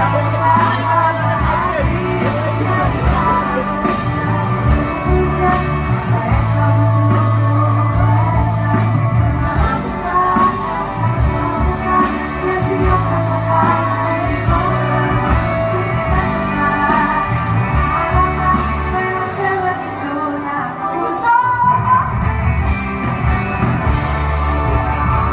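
Live pop music: a band playing with a voice singing, with the bass dropping out briefly about four-fifths of the way through.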